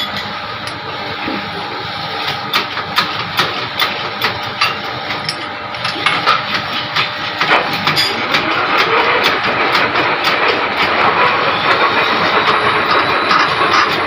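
A machine running steadily, with many sharp taps in the first half, then a denser, louder run from about halfway.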